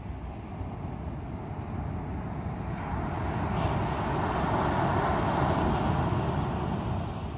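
Sea waves surging onto the shore of the East Sea: a steady wash of surf, with one wave swelling about halfway through, loudest a little after and easing off near the end.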